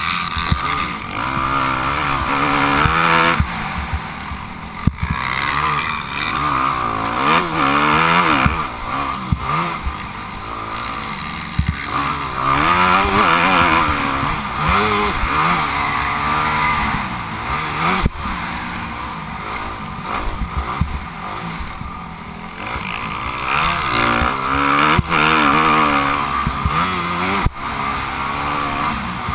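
Motocross bike engine revving up and dropping back again and again as it is ridden, with a few sharp knocks along the way.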